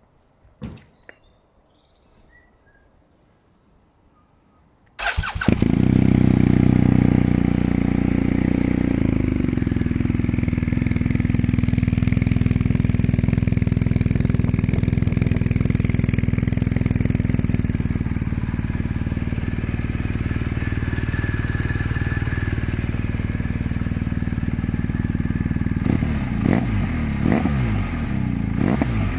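BMW R1250 GS boxer-twin engine breathing through an SC Project aftermarket silencer: after a few faint clicks it starts about five seconds in, runs at a slightly raised idle at first, then settles to a steady idle. Near the end it is given three quick throttle blips.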